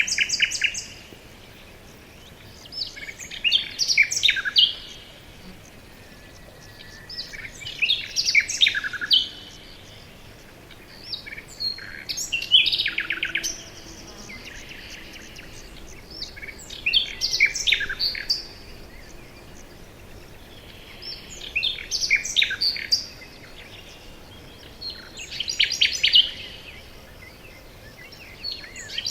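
A songbird singing the same short song over and over: a quick run of high notes lasting a second or two, repeated every four to five seconds, with a faint steady background hiss between songs.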